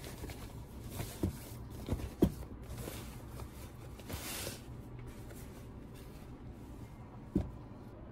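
Cloth bag handled by hand: a few light knocks in the first couple of seconds, a short fabric rustle about four seconds in, and one more knock near the end.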